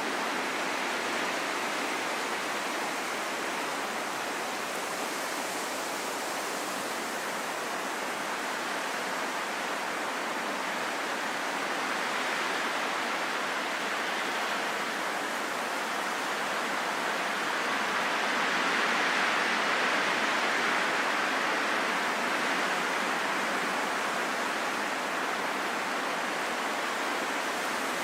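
Steady wind, an even rushing noise without gusty howls, swelling gently a little past the middle and easing off again.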